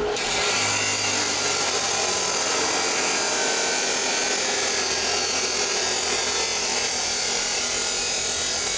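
A power tool cutting 4-inch thin-wall pipe for a new exhaust, running steadily without a break.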